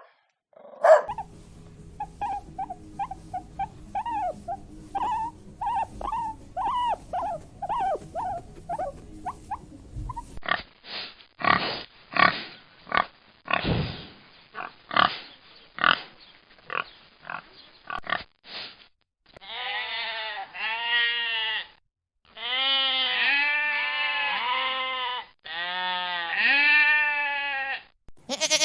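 Pigs calling in three stretches: a run of short, repeated high calls over a steady low hum, then about eight seconds of harsh grunts and squeals, then long arching squeals with a clear pitch.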